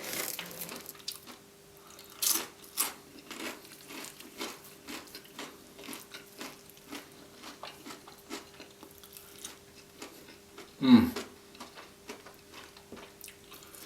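Close-miked chewing of crunchy food: wet mouth clicks and crunches, with two louder crunches about two to three seconds in. About eleven seconds in there is a short, louder mouth sound that falls in pitch.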